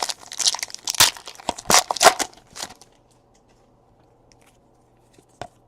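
A trading card pack wrapper being torn open and crinkled, a rapid run of ripping and rustling that stops about three seconds in. A single sharp click follows near the end.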